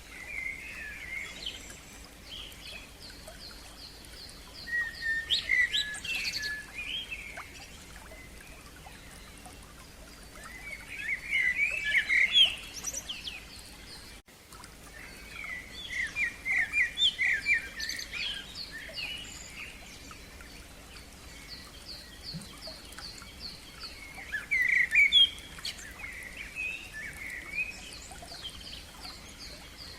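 Songbirds singing in turns: bursts of warbling phrases every few seconds, with a fast run of repeated high chirps going on behind them.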